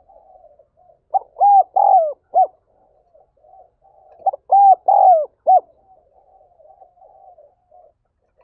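Spotted dove cooing in its fast, urgent calling song. There are two loud phrases of about four coos each, a few seconds apart, with softer, lower-level cooing between them.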